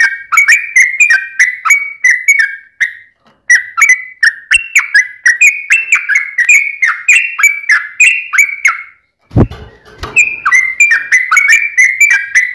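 Yellow-vented bulbul (trucukan) singing long, fast runs of short, bubbling whistled notes, with a brief pause about a quarter of the way in. A short low thud breaks in about three quarters of the way through.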